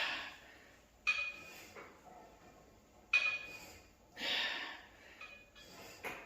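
Two sharp metallic clinks about two seconds apart, each with a short ring, from a cable machine's steel weight stack. Heavy breaths come at the start and about four seconds in.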